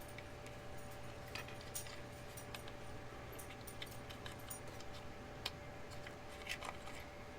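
Faint, irregular clicks and taps of small plastic model-kit parts being handled and pressed together as a scale engine is test-fitted into a model car body, over a faint steady hum.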